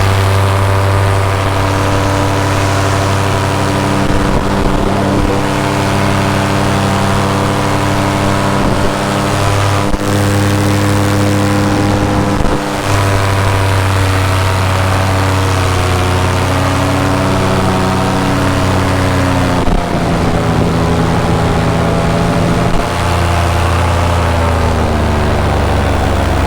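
Paramotor engine and propeller running steadily in flight. The engine note shifts in pitch a few times as the throttle varies and begins to drop near the end.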